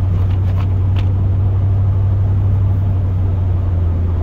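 Pickup plow truck driving, heard inside the cab: a steady low drone of engine and road noise, with one short click about a second in.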